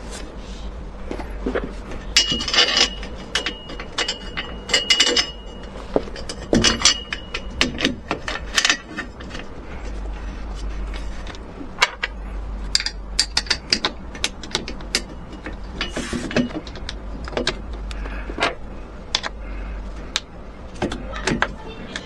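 Irregular clicks, knocks and scraping of hand work with tools and small hard parts, with a brief thin squeak a few seconds in, over a low steady hum.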